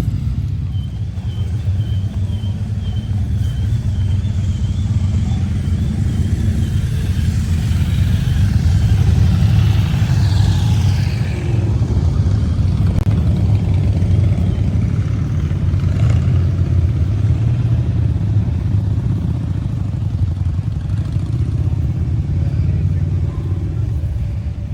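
A vehicle engine running steadily with a low rumble, with a faint warbling high tone over it through the first half.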